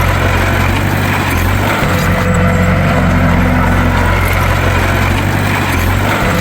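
A bulldozer's diesel engine runs steadily at a constant pitch, with no revving.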